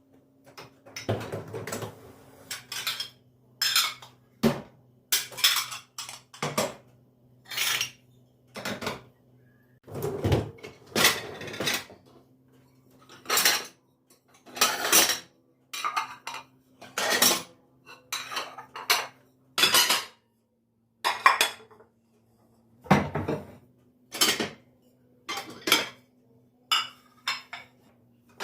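Dishes and cutlery being handled in a kitchen: a long run of separate clinks and clatters, a dozen or more, with brief pauses between them, over a faint steady hum.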